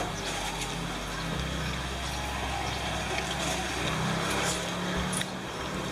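Roadside traffic noise: a motor vehicle's engine running with a steady low hum that shifts in pitch a couple of times, over a general street din with scattered faint clinks.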